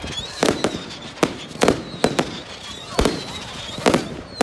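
Aerial fireworks display: a rapid, irregular series of loud bangs, about eight in four seconds.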